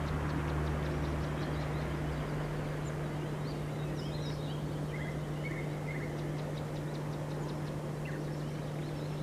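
Several songbirds singing in short, scattered phrases over a steady town rumble and a low continuous hum; a deeper hum drops out about two seconds in.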